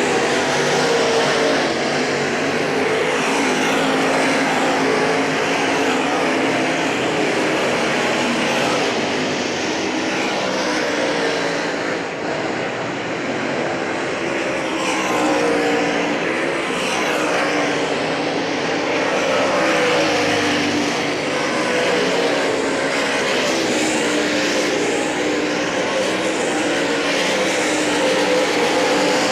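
Late Model Sportsman race cars running hot laps, several engines at once rising and falling in pitch as they come around the track.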